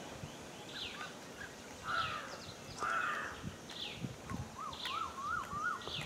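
Birds calling: a short, high, falling chirp repeating about once a second, two louder, harsher calls around the middle, and a quick up-and-down trill near the end.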